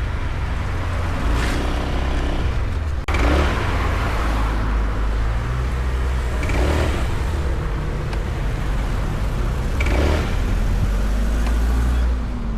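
Motor vehicle on the move: steady engine and road noise over a deep, constant rumble, with abrupt cuts about three seconds in and near the end.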